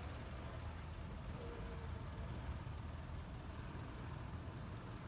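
Honda ADV 150 scooter's single-cylinder engine running steadily, a constant low hum with road noise over it.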